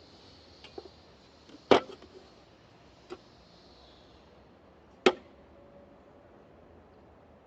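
Two sharp knocks about three seconds apart, with a few lighter clicks before and between them, from tools and parts being handled during work on the wiper assembly; the second knock leaves a faint short ring.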